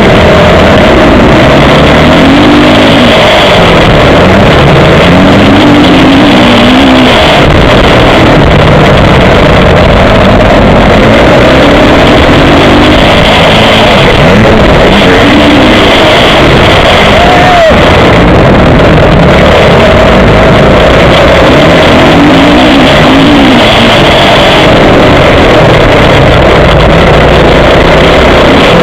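Motocross bike engine heard up close from an onboard action camera, revving up and dropping back over and over as the rider accelerates and shifts, with rushing noise over it. Very loud throughout.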